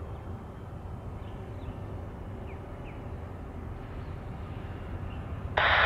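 Low steady outdoor rumble with a few faint, short bird chirps scattered through it.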